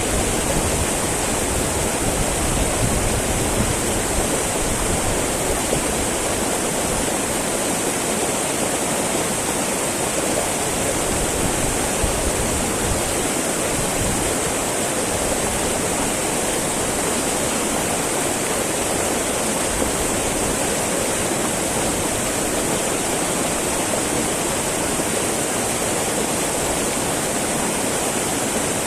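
Small mountain river babbling and rushing steadily over rocks: a constant, even flow of water.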